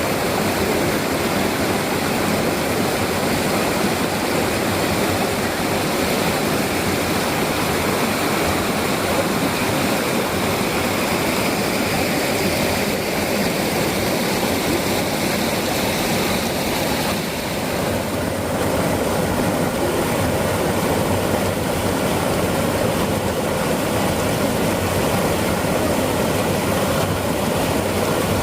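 Waterfall water rushing steadily: a dense, even noise that dips briefly about 17 seconds in.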